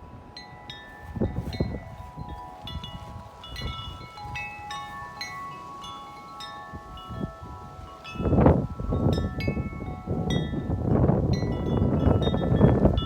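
A 36-inch Corinthian Bells tubular wind chime ringing in a strong wind, its tubes struck one after another in irregular clusters of overlapping tones. From about eight seconds in, wind gusts buffet the microphone with a loud rumble under the ringing.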